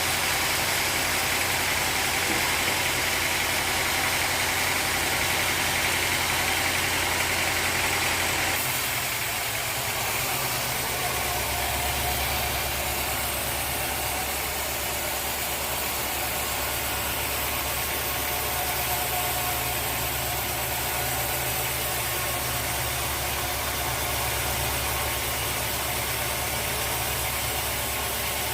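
Sawmill engine running steadily. About eight seconds in, the higher-pitched part of the sound drops away and the low hum settles at a new, steady pitch.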